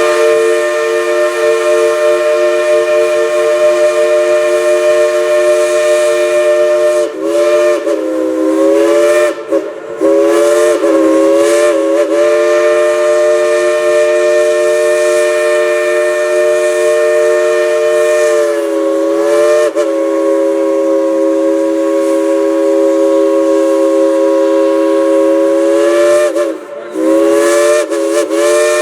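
Central of Georgia Crosby three-chime steam whistle on Dollywood Express locomotive No. 70, played as a tune: a loud, steady three-note chord over hissing steam. The chord is held in long blasts, with the pitch bending and briefly dropping away several times as the whistle is worked, about a quarter of the way in, again past the middle, and near the end.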